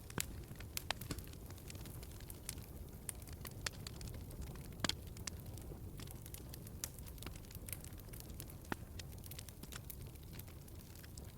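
Wood fire crackling in a fireplace: irregular sharp pops and snaps over a low, steady rumble of burning logs, with a louder pop about five seconds in.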